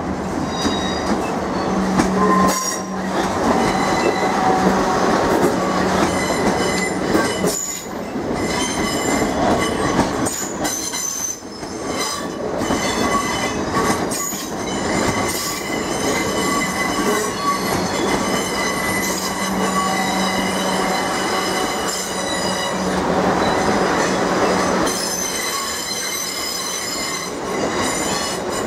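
A South Western Railway passenger train running along the platform, its wheels squealing in several high, steady tones over the rumble of the coaches.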